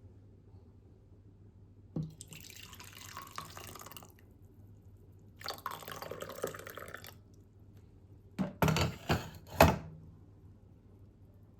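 Water running in two short spells of about two seconds each, then four quick sharp knocks.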